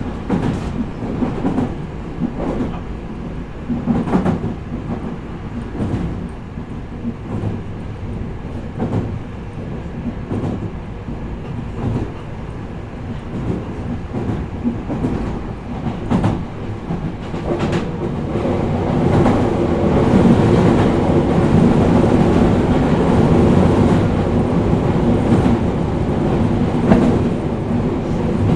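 Cabin running noise of a Meitetsu 4000 series electric multiple unit under way: a steady rumble with wheels clicking over rail joints. The noise grows louder about two-thirds of the way through.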